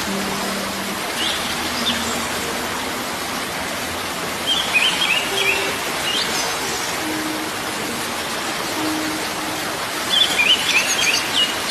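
Steady rush of a waterfall, with small birds chirping in short clusters a few times, the longest burst near the end.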